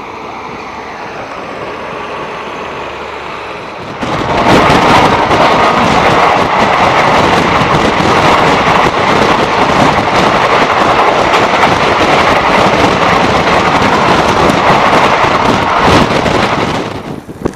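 A train passing at speed on the next track, heard from a moving train: the own train's running noise, then a sudden loud rush of wheel clatter and wind about four seconds in that holds for about twelve seconds and drops away near the end.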